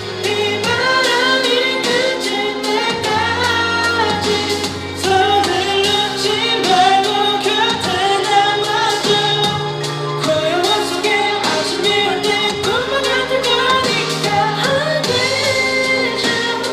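Pop-rock band music: male vocals singing a melody over drums, bass and keyboard, with the drum hits keeping a steady beat.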